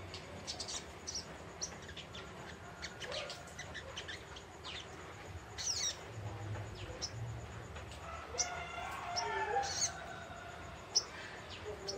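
Young green sogok ontong (little spiderhunter) chattering: quick, irregular series of short, sharp high chirps that drop in pitch. Lower, wavering calls of other birds sound in the background near the middle and end.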